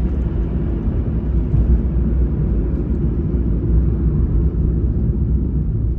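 Car engine and road rumble heard from inside the cabin: a steady low drone.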